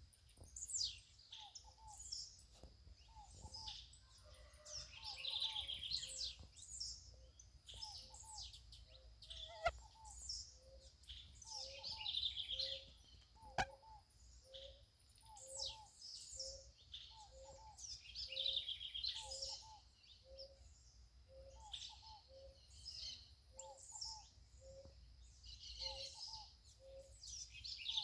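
Several wild birds singing and chirping outdoors, high phrases coming every couple of seconds. Underneath runs a steady, evenly spaced series of short low notes. Two sharp clicks fall near the middle.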